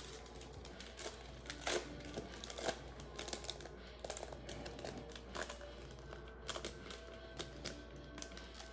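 A trading-card pack wrapper being opened and its cards handled, making irregular small crinkles and clicks, with faint background music under it.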